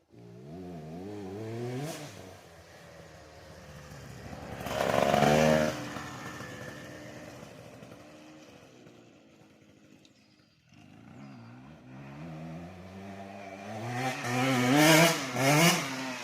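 Husqvarna 150 two-stroke dirt bike being ridden hard, its engine revving up and dropping back again and again. It peaks about five seconds in, fades to quiet around ten seconds, then comes back louder near the end.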